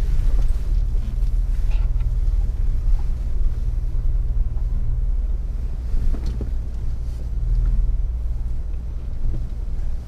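Off-road 4x4's engine running at low revs, a steady low rumble, with a few light knocks.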